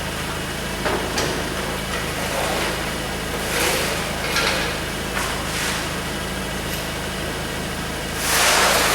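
A steady low machine hum, with several short bursts of noisy hiss, the longest and loudest near the end.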